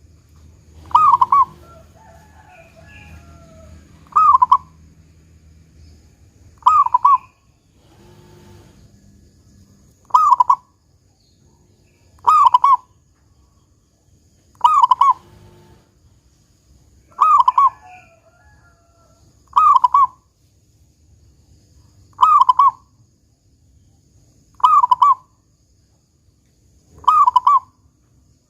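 Zebra dove (perkutut) cooing: a short phrase of clear notes repeated about every two and a half seconds, eleven times.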